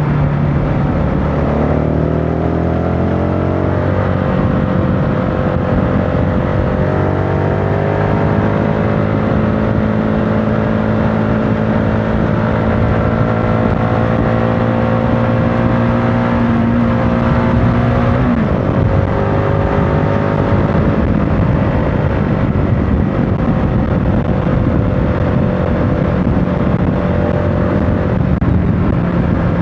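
CFMOTO motorcycle engine running under way, its pitch climbing over the first few seconds and then holding steady. It drops sharply about 18 seconds in, then holds again and falls near the end, over a steady rush of wind and road noise.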